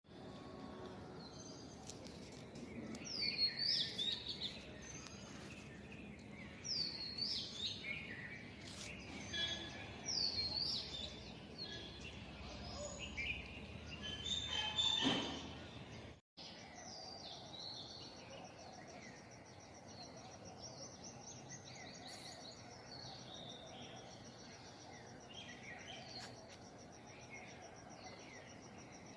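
Birds singing: a high swooping call repeats about every three and a half seconds among other chirps. After a sudden break about sixteen seconds in, a fast, steady high trill continues with scattered chirps.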